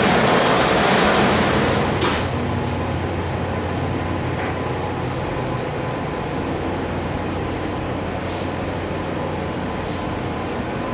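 Ship's engine room machinery running: a loud, steady mechanical din with a low hum. About two seconds in a sharp knock sounds and the noise drops to a lower, duller level.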